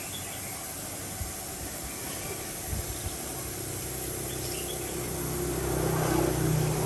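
An engine running with a low steady hum that grows louder through the second half, over a steady background hiss.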